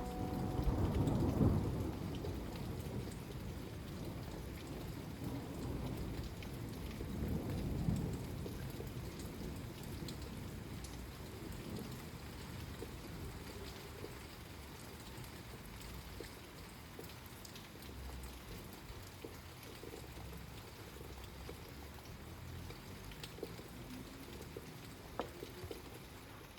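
Thunderstorm: thunder rumbling twice, loudest about a second in and again about eight seconds in, over steady rainfall that goes on as the rumbles fade away.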